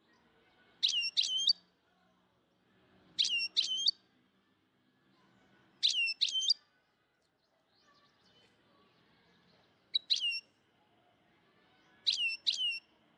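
Bird chirping: five short bursts of two or three quick, high notes that swoop downward, a few seconds apart.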